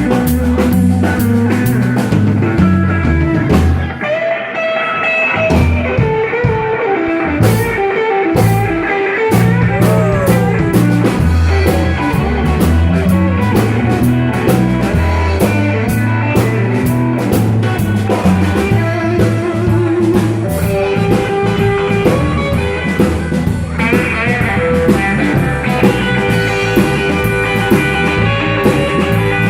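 Blues-rock band jam with electric guitar, bass and drum kit; the bass drops out briefly a few seconds in while the guitar plays on, then the full band comes back.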